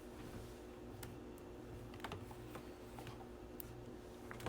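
Faint, scattered clicks of typing on a computer keyboard, over a low steady hum.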